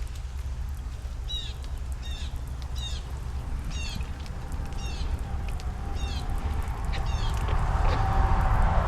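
A bird calling over and over, a short high chirp about once every three-quarters of a second, over a steady low rumble. A hiss swells in over the last couple of seconds.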